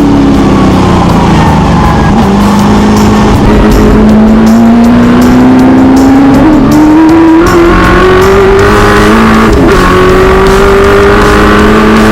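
V8 engine of a historic muscle race car under hard acceleration, its pitch climbing slowly and steadily. It drops briefly and picks up again about two seconds in and near the end, like gear changes.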